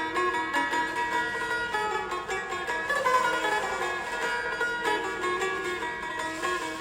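A plucked string instrument playing a melody to show off its tone, each note starting sharply and ringing on with many overtones.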